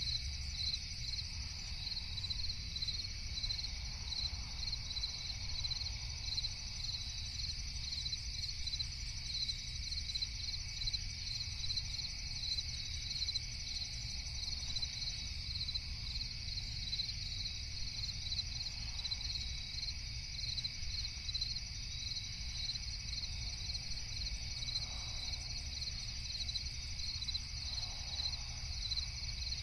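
Crickets chirping in a steady, evenly pulsed chorus over a low steady rumble: night-time forest ambience.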